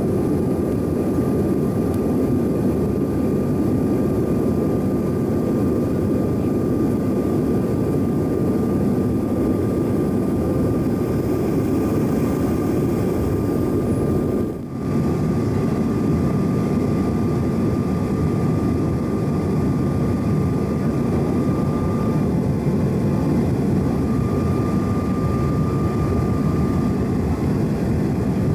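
Cabin noise aboard a Bombardier CRJ-900 regional jet: the steady rush of its rear-mounted turbofans and airflow, with a thin steady whine on top. The noise dips briefly about halfway through, then carries on unchanged.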